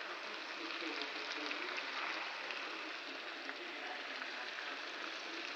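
Vegetable stir-fry sizzling in a hot pan while being stirred, with a steady hiss and faint clicks of the metal utensil against the pan.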